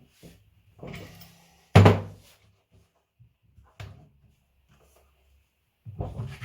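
Knocks and clatter of parts and tools being handled during a washing machine repair. The loudest is a sharp knock about two seconds in with a brief ring after it, followed by a lighter knock and then a quick run of knocks near the end.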